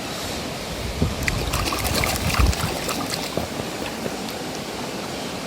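Steady rush of running water. About a second in, a couple of seconds of splashing and small knocks as toy cars are picked up and handled in the water.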